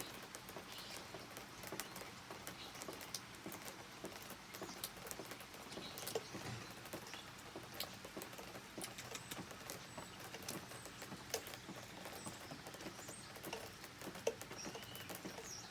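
Rain pattering as a steady hiss, with many small irregular clicks and taps scattered through it.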